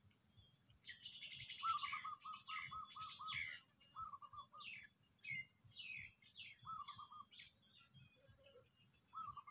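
Wild birds calling: a quick run of repeated short whistled notes, then shorter groups of the same notes, with several higher calls sliding downward, starting about a second in.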